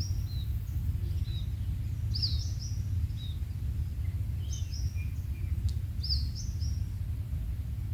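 Small birds chirping: short, high chirps that drop in pitch, in quick clusters every second or two, over a steady low rumble.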